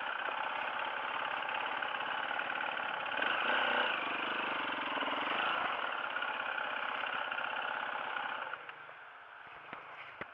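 Dirt bike engine running steadily at low revs, then dying away about eight and a half seconds in, leaving a few faint clicks.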